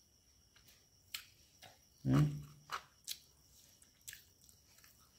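A person chewing paneer tikka, close to the microphone: scattered wet mouth clicks and smacks. There is a short hummed 'mm' about two seconds in.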